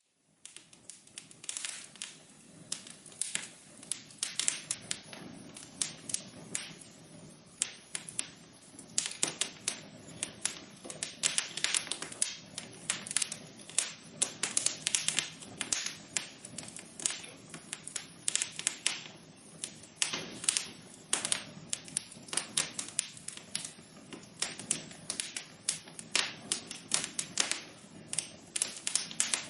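Wood fire in a fireplace crackling: dense, irregular pops and snaps over a soft steady rush of burning, starting abruptly and growing a little louder a few seconds in.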